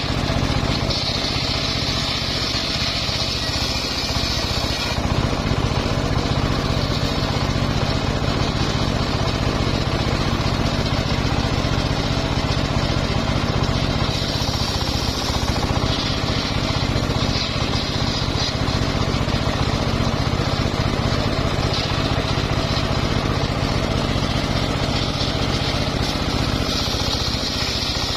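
Engine-driven, home-built circular sawmill running steadily while sawing mahogany logs, with a high whine from the blade that comes and goes several times as cuts start and end.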